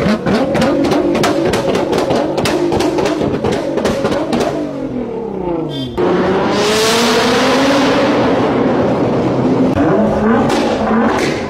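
Nissan GT-R R35 twin-turbo V6 being revved, with a fast run of sharp exhaust pops while the revs fall away. About six seconds in it changes to a GT-R accelerating hard through a tunnel, its engine and rushing exhaust echoing loudly, and near the end sharp pops start again.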